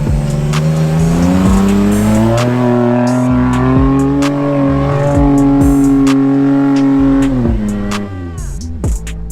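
Jeep engine revving under load in the snow: its pitch climbs over the first two seconds or so, holds high and steady, then falls away near the end. A background music beat runs underneath.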